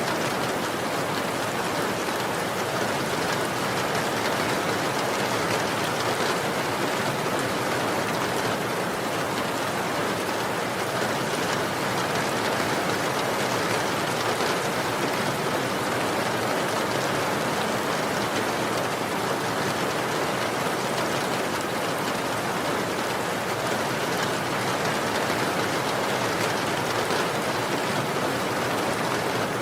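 Steady, even rain falling, with no thunder or other events.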